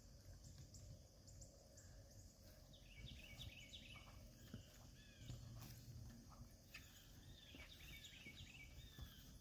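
Faint rural outdoor ambience with a small bird chirping: repeated short, falling chirps starting about three seconds in.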